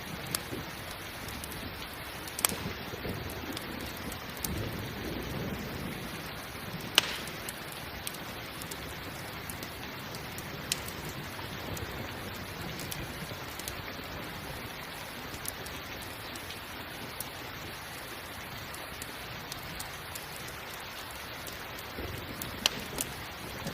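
Steady rain mixed with a crackling campfire, whose sharp single pops come every few seconds, the loudest about seven seconds in. A low rumble of thunder swells around five seconds in and again near the end.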